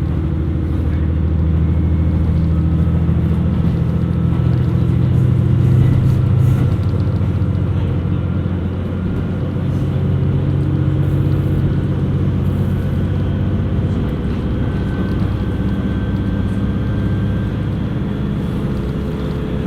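KiHa 127 series diesel railcar under way, heard from inside the car: a steady diesel engine drone mixed with running noise from the wheels on the rails. The engine note swells about six seconds in, then eases off.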